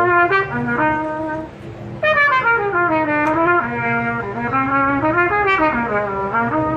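A brass instrument, trumpet-like, playing a melody of held notes and smooth slides, with a brief drop in level about one and a half seconds in.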